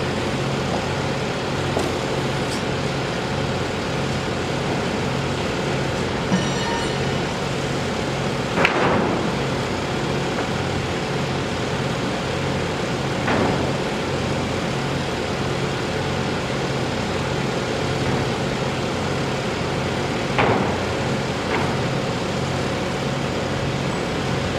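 A steady engine running with a low, pulsing hum under a general noise of machinery and traffic. Three sharp knocks or clanks break through, about nine, thirteen and twenty seconds in, the first the loudest.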